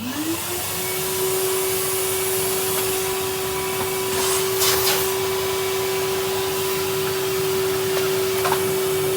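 A Numatic Henry cylinder vacuum cleaner being switched on. Its motor whine rises in pitch for about half a second as it spins up, then runs steady, with a couple of brief louder swishes around the middle.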